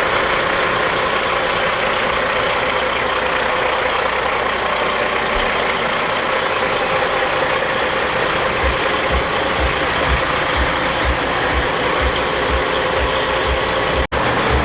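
Semi-truck diesel engine running steadily and loudly, with irregular low pulses joining in about two-thirds of the way through. The sound cuts out for an instant near the end.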